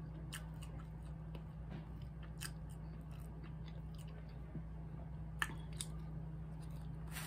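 A person chewing French fries close to the microphone, with a few sharp mouth clicks scattered through, over a steady low hum.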